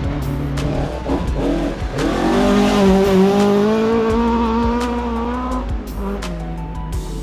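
Rally car engine working hard on a forest stage: the engine note climbs about two seconds in, holds at high revs, then falls away near the end, with sharp cracks scattered through it.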